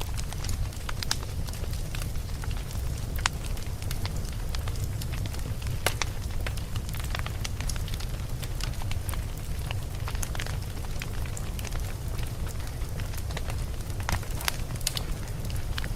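Campfire burning: a steady low rumble of flames with irregular sharp crackles and pops from the burning wood, a quick cluster of pops near the end.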